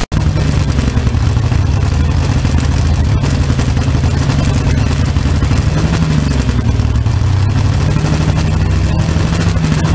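Fuel-injected Holden 202 straight-six of a slingshot dragster running steadily at low revs, loud, its pitch dipping and rising slightly about six seconds in.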